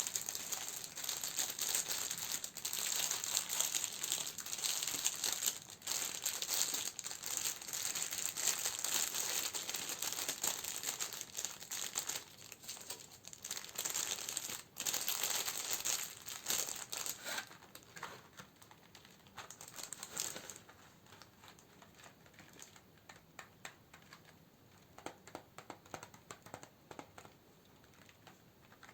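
Plastic wrapping and paper around candles crinkling as they are handled, dense and continuous for a good while. About seventeen seconds in it thins out to quieter scattered taps and light crinkles.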